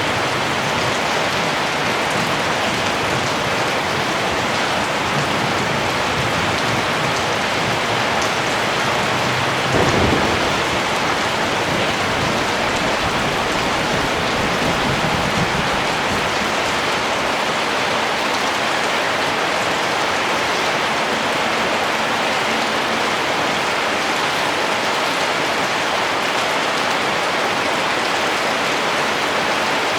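Steady rain falling. About ten seconds in, a low rumble of thunder breaks in suddenly and rolls on for several seconds before fading back into the rain.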